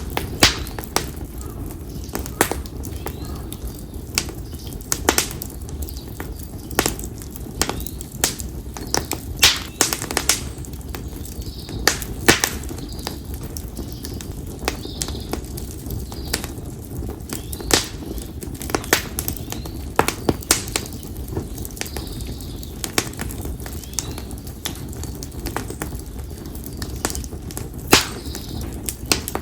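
Split konara oak firewood burning in an open campfire, crackling with sharp, irregular pops every second or so over a steady low rumble of the flames.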